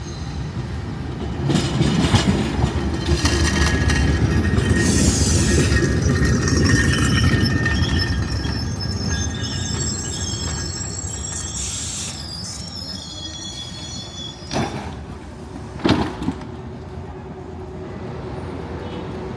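Narrow-gauge tram-train running on rails, its rumble building quickly and then easing off, with high wheel squeal over the middle. Two sharp clanks follow near the end.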